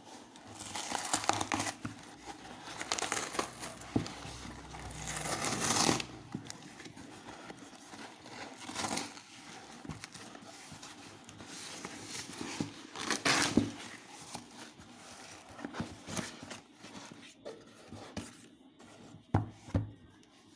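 Retail packaging being opened and handled by hand: irregular rustling of cardboard and plastic, louder in the first few seconds and again about two-thirds through, with scattered small clicks and knocks.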